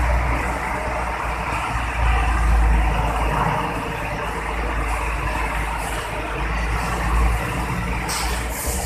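Hino truck's diesel engine running with a steady low rumble, with a couple of short hisses near the end.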